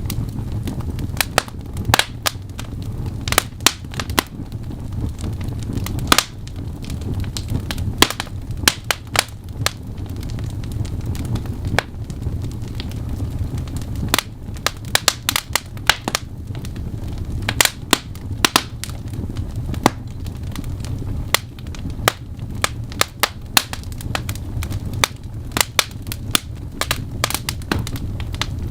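Wood fire in a fireplace crackling, with frequent irregular sharp pops and snaps over a steady low rumble of the burning logs.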